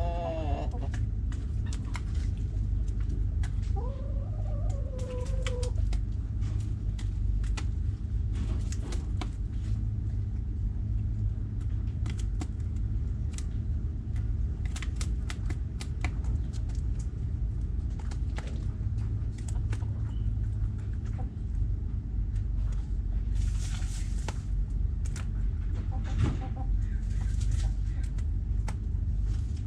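Backyard hens clucking now and then, with a drawn-out call about four seconds in and a short one near the end, over a steady low rumble. Scattered sharp ticks and a brief rustle about two-thirds of the way through.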